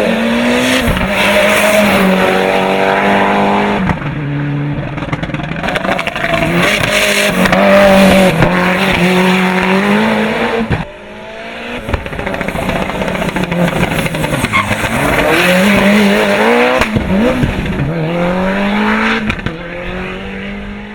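Mitsubishi Lancer Evo VIII prototype hill-climb car's engine at full throttle, its pitch climbing and dropping again and again as it shifts through the gears, with a brief lift off the throttle about eleven seconds in.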